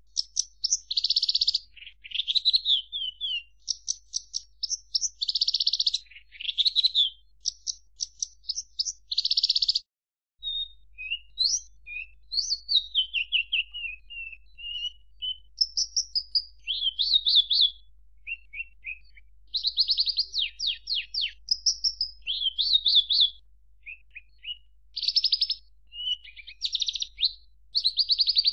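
Javan bush lark (branjangan) singing a long, varied song of rapid trills, buzzy bursts and quick slurred whistles, high-pitched, with a brief break about ten seconds in.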